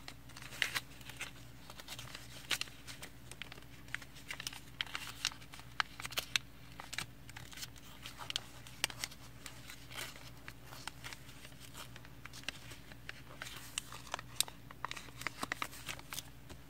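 Sheet of origami paper being folded and creased by hand: scattered crinkles, rustles and sharp little clicks as the paper is pressed flat, over a low steady hum.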